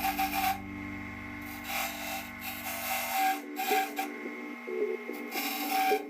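Sandpaper or an abrasive rubbing against a wooden handle in repeated short strokes, over quiet background music. A low hum underneath cuts off about halfway through.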